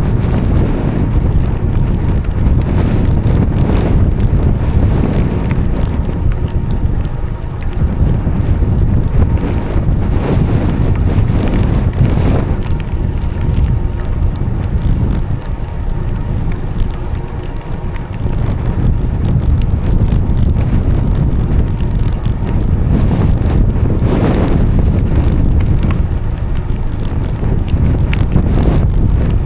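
Wind buffeting the microphone while cycling: a loud, steady low rumble with no clear events.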